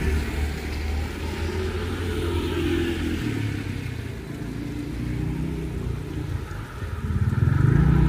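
A motor vehicle's engine running nearby, dying away about six seconds in and growing louder again near the end, over the steady hiss of heavy rain.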